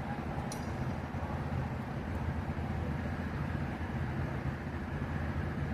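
Heavy equipment engine running steadily with a low rumble, and a brief tick about half a second in.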